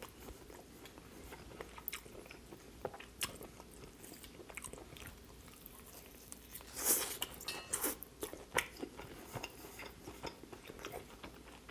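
Close-miked chewing and wet mouth sounds of a person eating, quiet for most of the time, with louder smacking bites about seven to nine seconds in as a fresh mouthful goes in.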